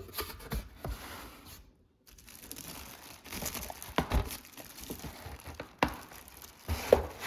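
Packaging crinkling and rustling as the humidifier's packed parts are pulled out of their cardboard box, with a few sharp knocks, pausing briefly about two seconds in.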